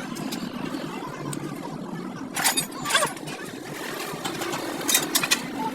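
Steady mechanical hum with a few sharp metallic clinks of tools on engine parts: a couple about two and a half and three seconds in, and a quick cluster near the end.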